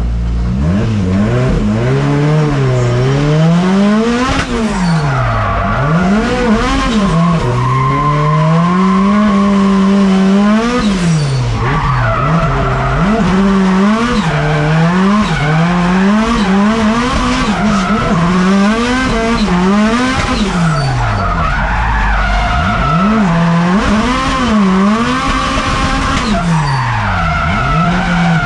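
Drift car engine revving hard, its pitch climbing and dropping over and over, with tyres squealing and skidding.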